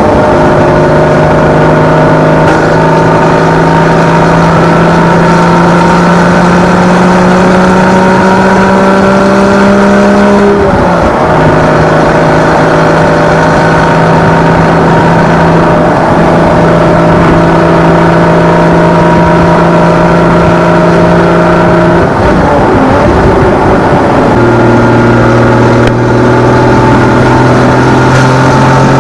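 Porsche Boxster 981's naturally aspirated flat-six engine through its stock exhaust, pulling under light acceleration with the revs climbing slowly. The pitch breaks off and picks up lower twice, about ten seconds in and about twenty-two seconds in, at upshifts of the six-speed manual gearbox.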